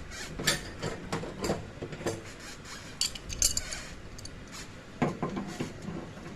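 Irregular light metallic clinks and knocks of hand tools and metal parts being handled, with a cluster of sharper clinks about three seconds in and another near five seconds.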